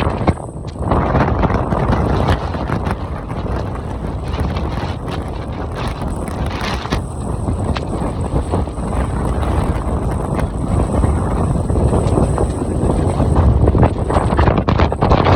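Strong snowstorm wind gusting against the microphone, a loud continuous rushing with a short lull just after the start.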